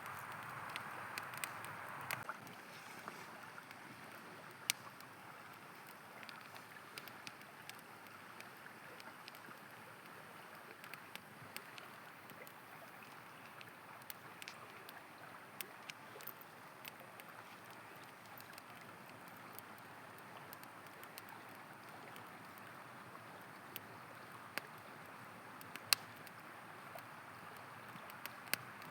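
A river flowing steadily, with a campfire crackling over it: scattered sharp pops, the loudest about five seconds in and again near the end.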